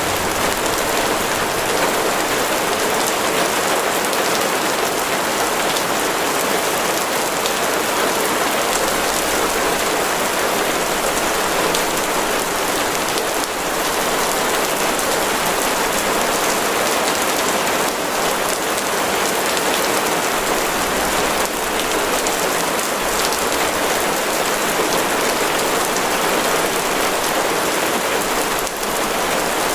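Steady heavy rain pattering on a surface, a dense even hiss with scattered individual drops.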